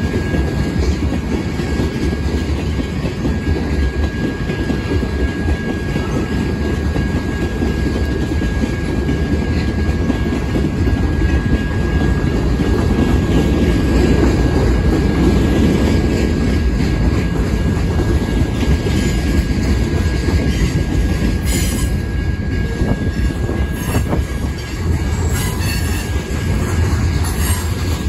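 Freight cars of a mixed freight train rolling past close by: a steady rumble of steel wheels on the rails with clacking over the joints. A thin, steady high whine sounds through the first dozen seconds, and a few sharp clanks come near the end.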